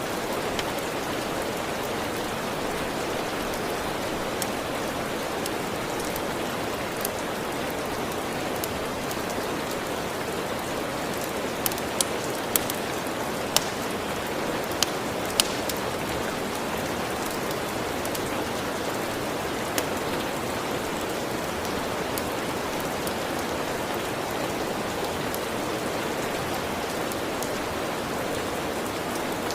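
Steady rain with a crackling wood fire: a handful of sharp pops come through the rain, most of them in a cluster about twelve to fifteen seconds in.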